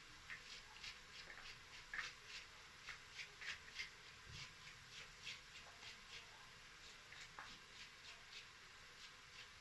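Onions frying in a pan: faint, irregular sizzling crackles, several a second, while the onions cook until ready for the tomatoes.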